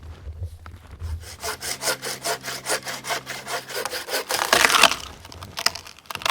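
Handmade hand saw cutting through a log in quick, even strokes, with a louder, rougher stretch about four seconds in.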